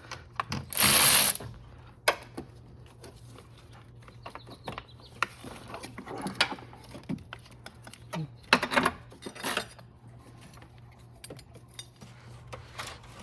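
Hand ratchet clicking in short spells, with clicks and clanks of tools on metal, as a car battery's terminal and hold-down nuts are undone.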